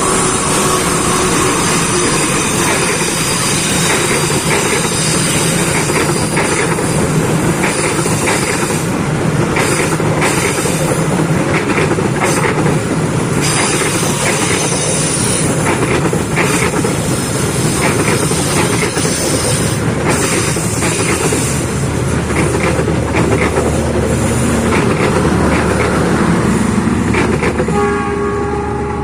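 Train passing at close range, its wheels clattering steadily over the rail joints. Near the end a train horn sounds as the noise begins to fall away.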